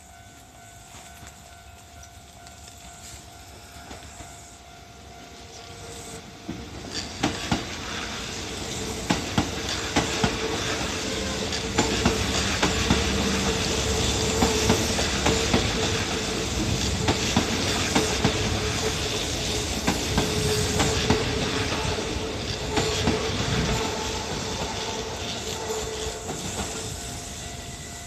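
Electric commuter train passing over a level crossing. It builds up over the first few seconds, then its wheels clack over the rail joints for about twenty seconds as the cars go by, and it fades near the end.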